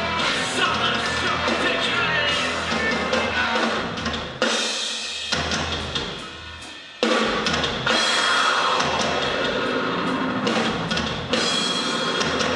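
Live noise-rock band playing loud, with pounding drums and distorted guitar. About four seconds in the band hits and lets the sound ring out and fade, then crashes back in together about three seconds later.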